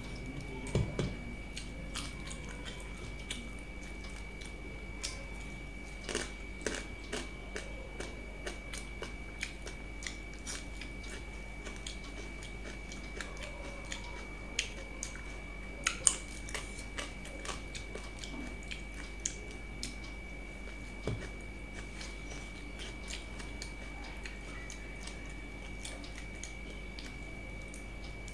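A person eating rice and fish curry by hand, picked up close by a clip-on microphone: chewing with soft mouth clicks and smacks. A few louder smacks stand out, the loudest about a second in and around sixteen seconds.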